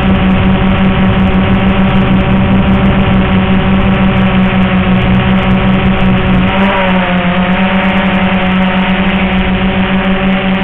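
XK X380 quadcopter's electric motors and propellers humming steadily and loudly. About two-thirds of the way through, the pitch dips and wavers as the motors change speed, then settles again.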